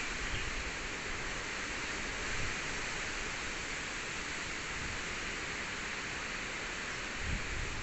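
Typhoon wind blowing hard, a steady rushing hiss, with gusts buffeting the microphone about two and a half seconds in and again near the end.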